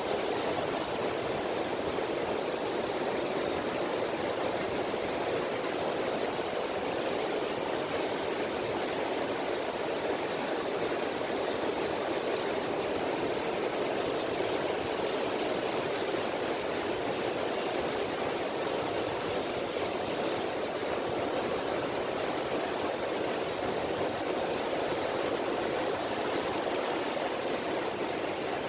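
Small waves (sazanami ripples) washing on the Seto Inland Sea shore, a steady, even wash of water with no distinct breaks.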